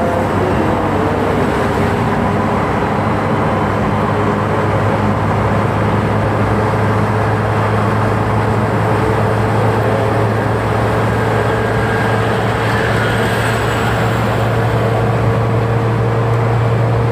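Cargo ship's engines and machinery running with a loud, steady drone: a deep hum with a fixed higher tone over it, unchanging throughout.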